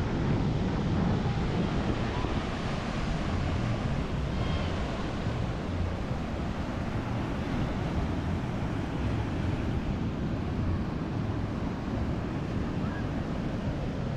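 Steady rushing outdoor noise with a rumbling low end and no distinct events.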